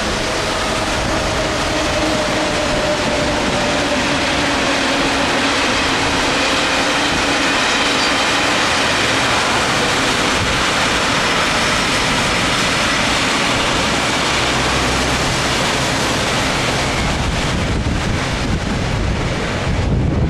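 A vehicle moving in the rain: a steady rushing noise with faint motor tones running through it. Near the end the hiss eases and a low rumble grows.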